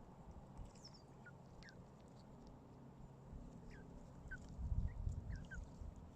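Small birds calling: scattered short, falling chirps, several in quick succession between about four and five and a half seconds in. A low rumble swells beneath them around the same time.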